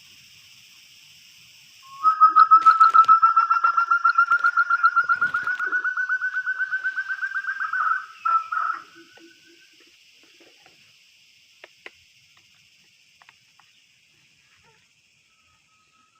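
A quail's rapid pulsed call, a quick run of notes that rises slightly in pitch for about six seconds and ends in two short bursts, used to lure forest quail to the trap. Insects shrill steadily behind it.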